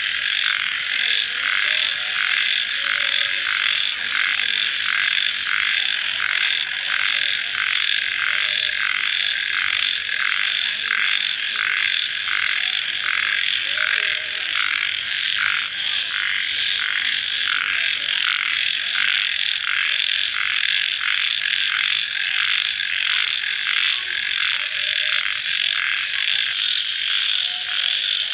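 Dense night chorus of crickets chirping after rain, a steady high-pitched trilling that pulses evenly about twice a second.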